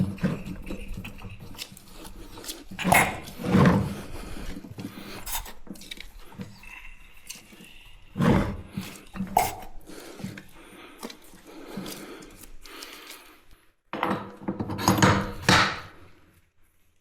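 Irregular metallic clinks, knocks and clatters of tools and parts being handled, loudest in a few clusters, during the repair of a petrol rock-drill engine.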